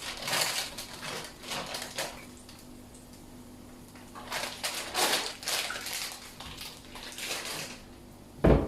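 Kitchen clatter of utensils and dishes being handled, irregular scrapes and knocks, with one heavy thump near the end.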